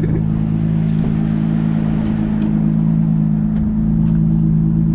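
Nissan 350Z's V6 engine running at a steady, unchanging speed, a constant low drone heard from inside the cabin.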